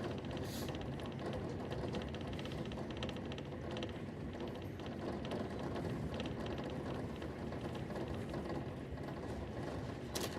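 Passenger train running: a steady rumble heard from inside the carriage, with a fast, uneven rattling over it and a sharp click near the start and again near the end.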